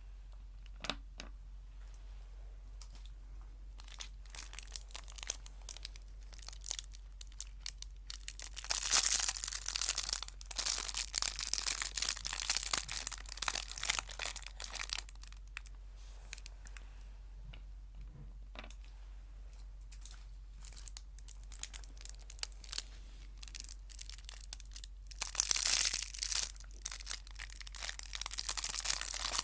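Snack wrapper crinkling and tearing under the fingers, in two dense spells of crackling about a third of the way in and near the end, with scattered small crackles between.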